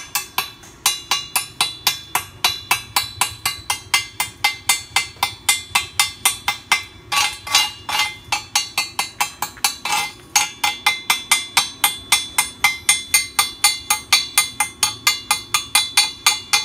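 Slag-chipping hammer rapidly tapping slag off a fresh stick-weld bead on steel, several sharp metallic strikes a second, each ringing briefly, with a few short pauses.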